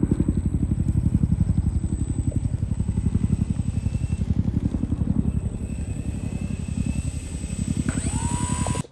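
Radio-controlled P-40 warbird model flying, its motor and propeller making a steady, rapidly pulsing drone. A rising whine comes in near the end.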